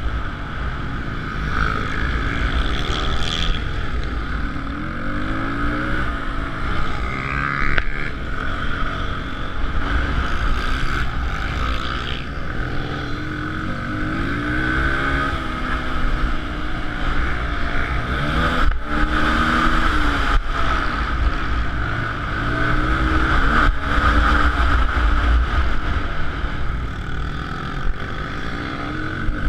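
Suzuki DR-Z125L pit bike's small four-stroke single-cylinder engine under race load, its pitch repeatedly rising and dropping back as the throttle is opened and closed.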